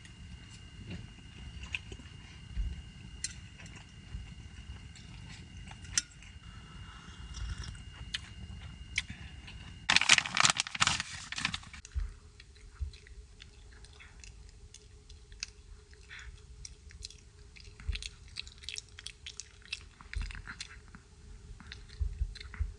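Close-up chewing and crunching with small handling clicks, a loud rustling burst about ten seconds in, and a faint steady hum underneath from then on.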